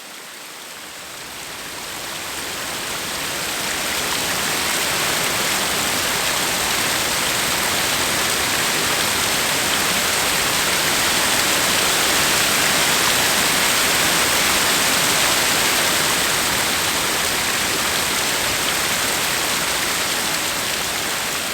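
Water rushing over a river weir: a steady, loud, even roar of falling water that swells in over the first few seconds.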